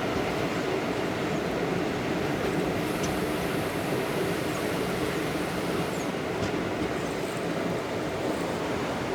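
ICF passenger coach running along the track, a steady rumble of wheels on rail heard from inside the coach, with a few faint clicks.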